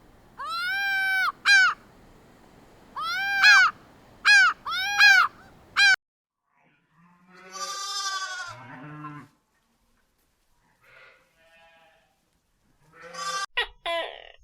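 Animal calls: a run of about six short, clear calls with an arching pitch in the first six seconds, then a different, lower and rougher call around eight seconds in, and more short calls near the end.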